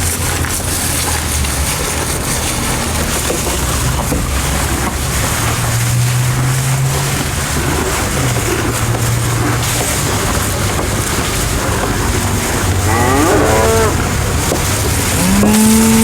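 Cattle mooing: long low calls, then two louder moos near the end, the last one the loudest.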